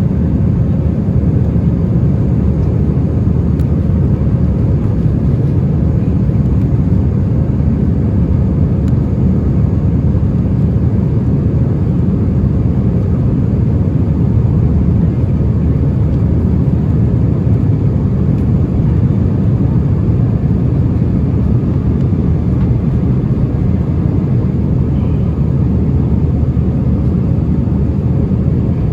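Steady cabin noise inside an Airbus A319 airliner in flight: an even, loud rumble of engines and airflow, with a faint steady hum above it.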